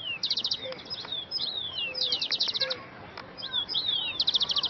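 Songbirds chirping and singing: three quick runs of rapid high notes, with short whistled calls sliding downward in between.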